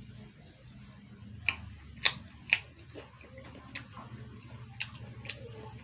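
Mouth sounds of someone eating raw fruit rujak: a run of short, sharp crunches and clicks, three loud ones close together around the middle and fainter ones after, over a low steady hum.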